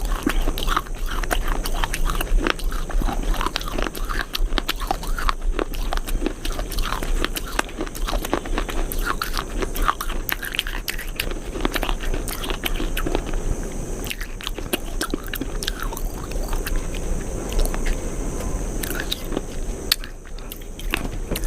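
A person chewing and biting into something crunchy, with many short crisp crunches all through.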